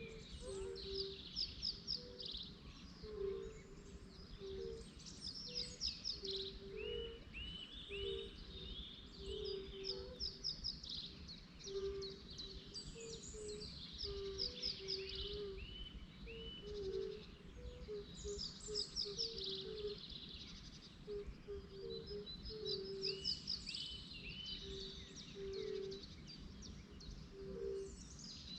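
Several birds singing, repeated high trilled song phrases overlapping one another, with a steady string of short low notes running underneath.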